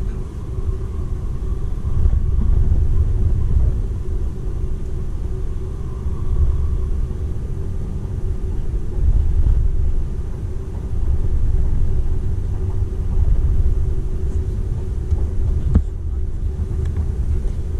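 Running noise inside the cabin of a Seibu 001 series Laview limited-express train under way: a steady low rumble of wheels on rail with a faint steady hum, and a single sharp click near the end.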